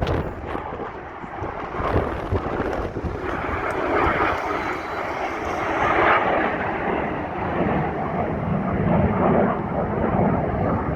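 Jet aircraft flying an airshow display, a broad engine rumble echoing off nearby buildings that swells about three seconds in and stays loud. Wind buffets the microphone.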